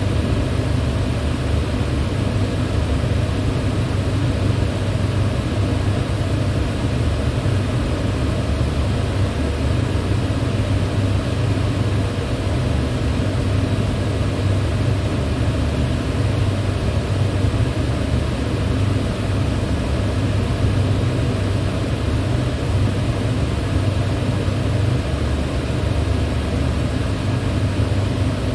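Electric fan running steadily, a constant low hum under an even whoosh of moving air.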